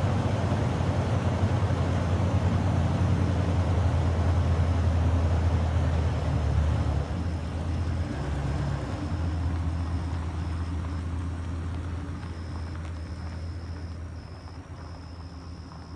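Motor vehicle engine running with a steady low hum, dropping in level about seven seconds in and fading gradually toward the end.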